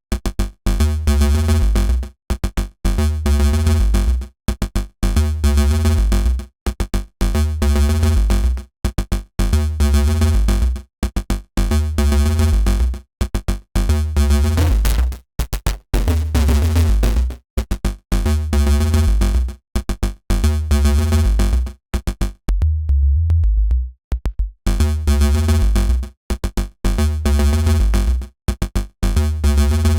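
Dirty FM synth bass riff built from Bitwig Polygrid modules, looping with a heavy low end and a pattern that repeats about every two seconds. About halfway through, the tone smears and changes for a couple of seconds, and a little later it cuts out for about a second and a half before the loop returns.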